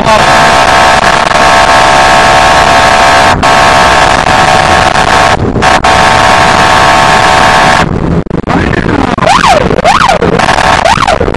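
Police car siren unit blaring a steady horn tone for about eight seconds, broken twice briefly, then switching near the end to a siren that sweeps up and down in pitch roughly once every second.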